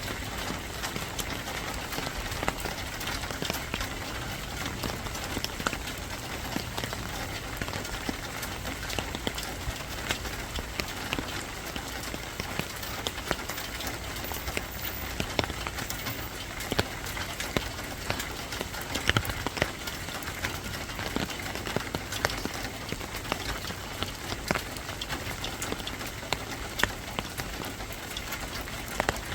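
Steady rain falling, with a continuous hiss and many sharp, close drop hits ticking on a surface.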